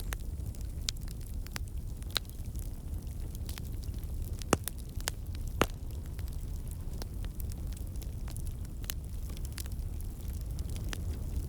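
Wood fire crackling in a fireplace: scattered sharp snaps over a steady low rumble, with two louder pops about a second apart near the middle.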